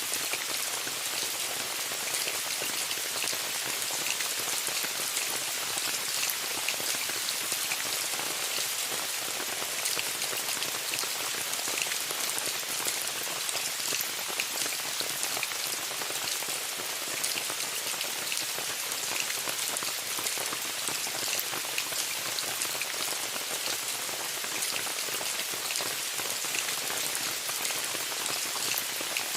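Steady rain falling on a tent, a dense patter of fine drop ticks over an even hiss.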